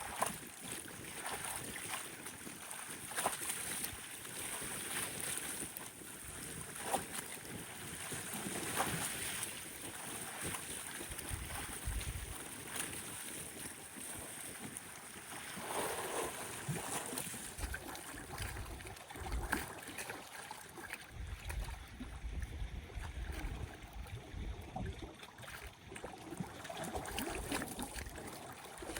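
Choppy lake water lapping and splashing irregularly against the shore in strong wind, with gusts buffeting the microphone in deep rumbles, heaviest past the middle.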